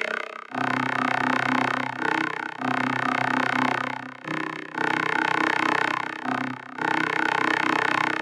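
Electronic sound-art soundtrack: dense, sustained synthesized drone tones in layered chords, coming in phrases of a second or two with short breaks between them.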